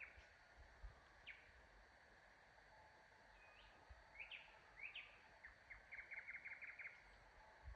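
Faint songbirds chirping, short scattered calls, then a quick run of about a dozen notes about six seconds in.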